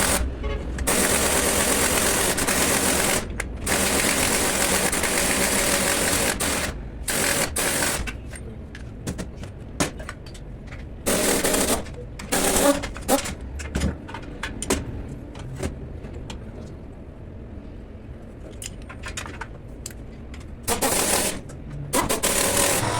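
Pneumatic impact wrench rattling in several bursts of one to two and a half seconds, the longest near the start, with loose clicks and knocks of tools and parts between them.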